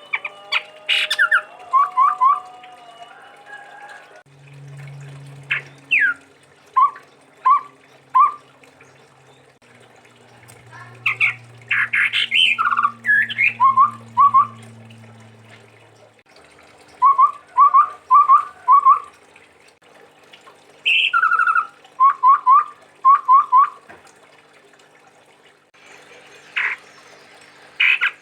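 Chestnut-rumped babbler (tepus tunggir merah) singing: short, clear whistled notes in quick runs of three to five, some led by a higher falling note, repeated phrase after phrase with short pauses between.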